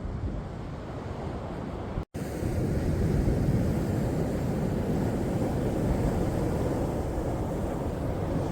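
Sea waves washing on the shore as a continuous rushing surf. The sound drops out for a split second about two seconds in, then comes back somewhat louder.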